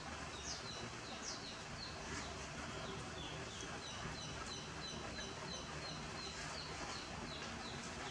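Small birds chirping: short, high, falling chirps repeated two or three times a second, over a steady low hiss.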